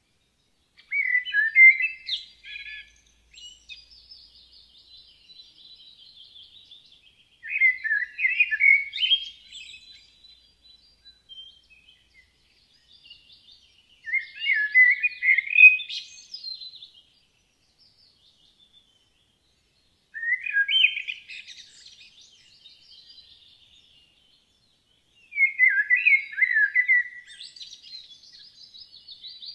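A songbird singing a short phrase of quick, chirpy notes, repeated about every six seconds, with fainter, higher twittering in between.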